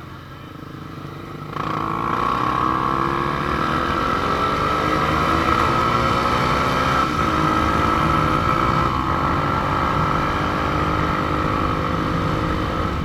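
Motorcycle engine pulling away and accelerating, a sudden rise in level about a second and a half in, then its pitch climbing slowly, with a brief dip about seven seconds in, over rushing wind.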